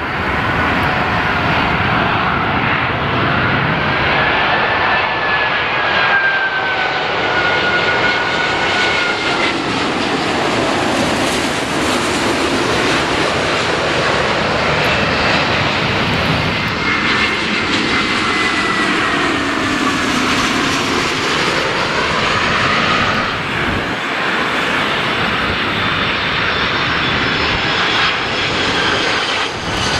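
Jet airliner engines running as the aircraft passes close by: a continuous rush of jet noise with whining tones that slowly glide up and down in pitch.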